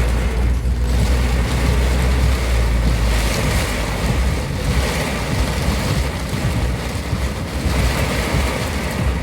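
Sudden heavy rain pouring down in a steady, loud rush, with a deep rumble underneath that eases after about three seconds.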